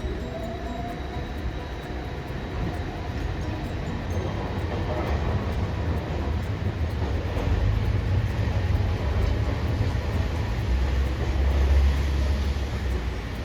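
A Hiroden streetcar running on its rails, a low rumble that swells to its loudest about twelve seconds in.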